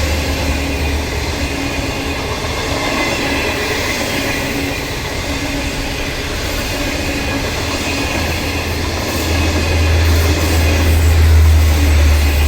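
A railway comprehensive inspection train hauled by an HXD1D electric locomotive passing close by: a steady rolling rush of wheels on rail. A deep rumble swells again about nine seconds in.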